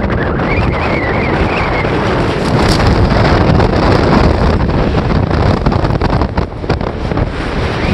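Strong wind buffeting the microphone, a loud, steady rumbling rush with gusts.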